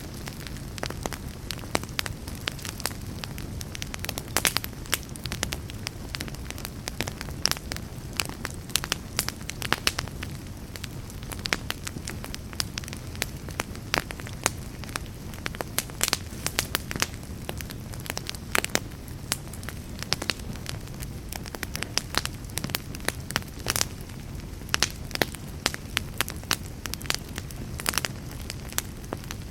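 Wood fire burning in a fireplace: logs crackling and popping in sharp, irregular snaps over a steady low rumble of flame.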